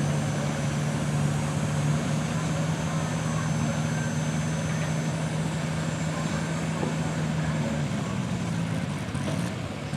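Garden tractor engine running at steady high revs, dying away about eight seconds in.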